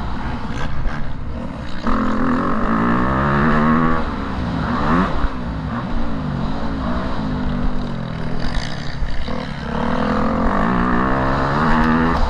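Motocross bike engine revving hard, its pitch repeatedly climbing and dropping back as the throttle is worked, with sudden steps in pitch like gear changes.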